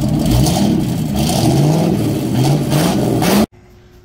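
Car engine revving again and again, each rev rising in pitch, cut off abruptly about three and a half seconds in.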